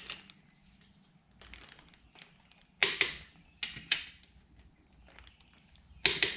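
Click-type torque wrench breaking over with three sharp clicks, about a second and then two seconds apart, as the main bearing cap bolts reach the set torque of 70 ft-lb.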